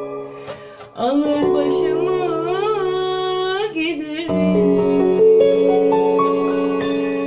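Electronic keyboard playing an arabesk-style melody over sustained chords. The lead line bends and wavers in pitch through the middle, then a new chord comes in and is held.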